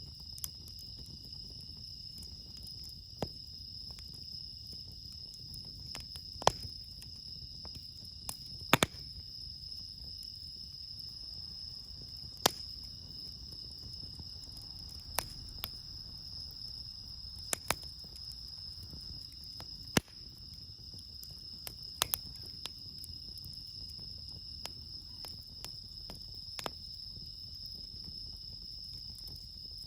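Steady high-pitched chorus of crickets, bell crickets among them, with a campfire's wood crackling and popping in sharp irregular snaps over a low rumble of the fire.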